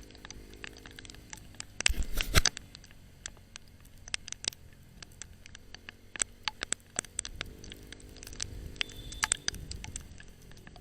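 Motorcycle riding at low speed, heard through a mounted action camera: many scattered sharp clicks and taps, with a loud burst of rattling about two seconds in, over a faint low engine hum that comes up again in the second half.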